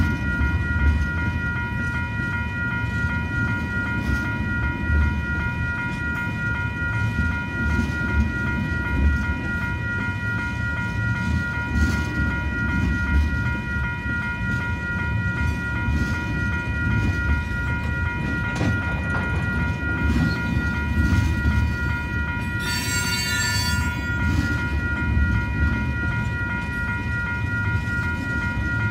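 Railroad tank cars rolling past a level crossing: a steady rumble of steel wheels on rail with occasional clacks. A level-crossing bell rings throughout with a rapid, even pulse. About three-quarters of the way through there is a brief high-pitched squeal.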